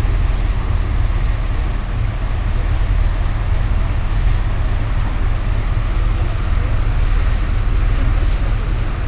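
Steady, loud low rumble with a rushing hiss aboard a moving ferry: the boat's engines and its churning wake.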